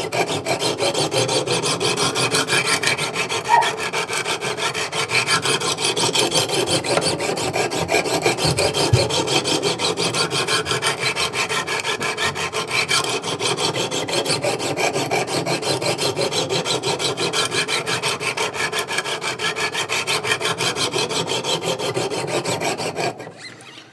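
Sharpening stone of a Wicked Edge Go guided sharpener scraping along an S35VN steel knife blade in rapid, even strokes, a steady rhythmic rasping that stops just before the end. The edge is being ground on one side to raise a burr.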